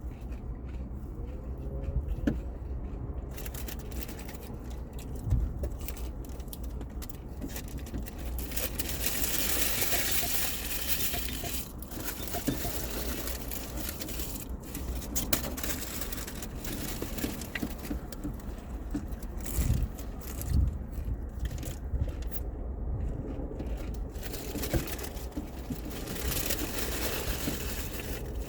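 Close-up eating sounds: chewing and crunching on tacos and burritos, with wrappers crackling and tearing, over a steady low hum.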